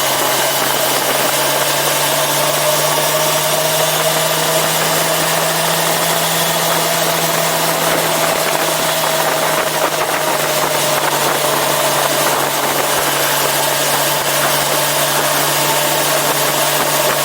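Yamaha FZ6R sportbike's inline-four engine running at a steady, even pitch, under a constant rushing noise.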